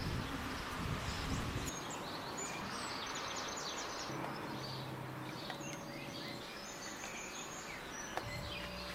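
Small songbirds chirping and singing repeatedly over a steady outdoor background hiss.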